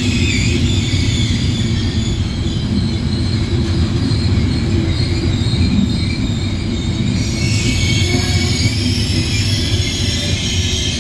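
Trenitalia Intercity passenger coaches rolling past along the platform: a loud, steady rumble of wheels on the track with a high hiss over it.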